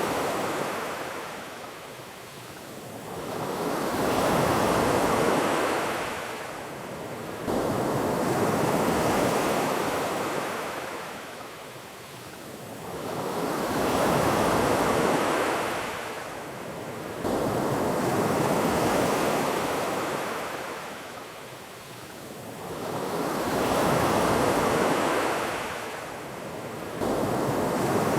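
Ocean waves breaking and washing on a shore, swelling and fading every four to five seconds, with a few sudden jumps in level.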